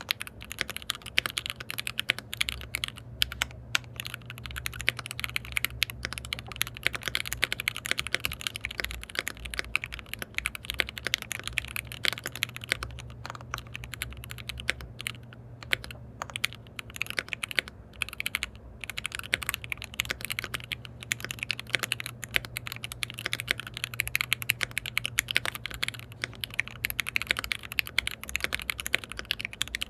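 Steady, fast typing on a KBD67 Lite R3 mechanical keyboard with lubed switches, with brief pauses twice in the middle. A steady low hum runs underneath.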